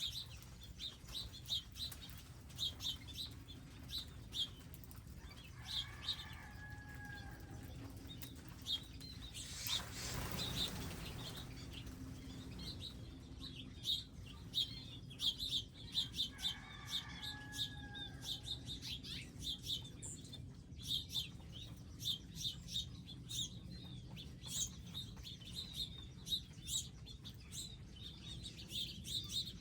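Wild birds at garden feeders chirping, many short high chirps repeating throughout. Two longer, lower calls come about ten seconds apart, and a brief rush of noise sounds about ten seconds in.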